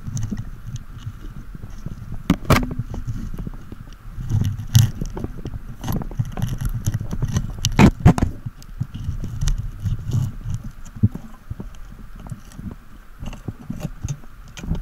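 Underwater knocks, clicks and scraping of a speargun shaft being worked free of the rock with an extractor, over a low uneven rumble of water. Two loud knocks stand out, about two and a half and eight seconds in.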